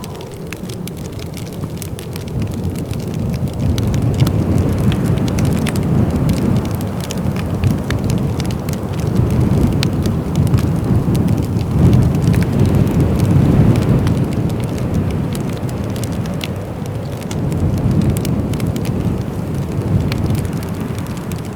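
Fireplace fire crackling, with many sharp pops and clicks, over a low rushing wind that swells and eases several times.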